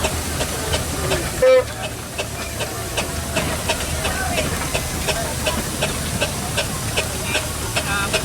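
Steam traction engine running past, its exhaust beats coming about three a second over a steady hiss of steam. A short, loud single-pitched toot sounds about a second and a half in.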